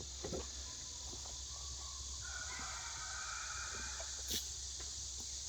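Steady high-pitched insect chorus, crickets, with a few faint clicks and knocks of handling.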